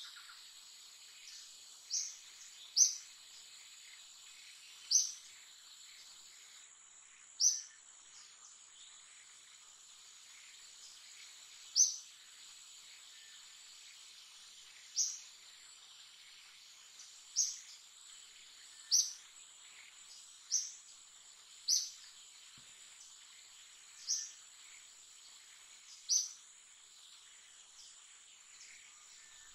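A short, high bird chirp repeated about a dozen times, every two to three seconds, over a steady high-pitched insect drone.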